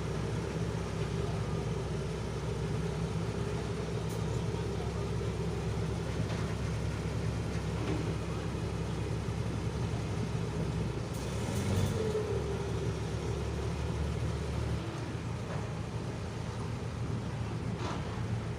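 A large truck's diesel engine, not remapped, running steadily with a deep exhaust rumble. About eleven seconds in there is a brief burst of noise, and a few seconds later the lowest rumble drops away.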